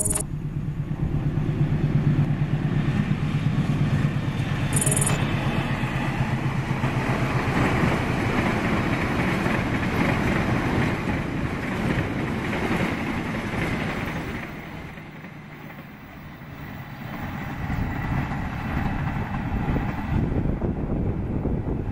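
KA Bima express passenger train passing close by: a steady low engine drone at first, then the continuous rumble of the carriages' wheels on the rails, which fades about 15 seconds in. The noise rises again near the end.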